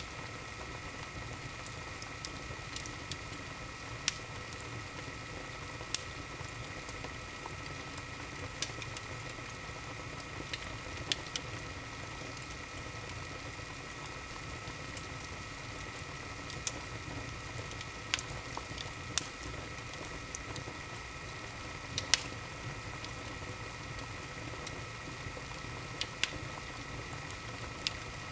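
Wood fire in an open fireplace crackling: sharp, irregular pops a second to a few seconds apart over a steady hiss.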